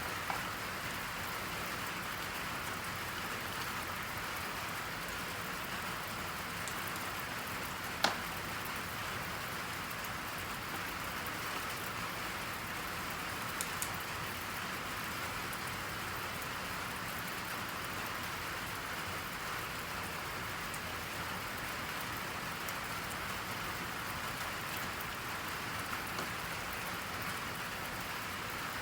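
Steady rain, an even hiss of falling rain, with one sharp click about eight seconds in and a couple of faint ticks a few seconds later.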